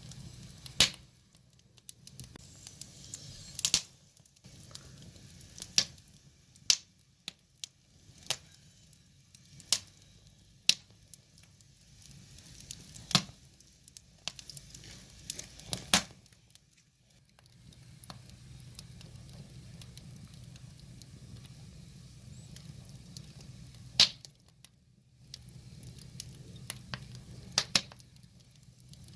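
Wood fire burning, crackling with irregular sharp pops of the burning logs, several of them loud, over a low steady rumble.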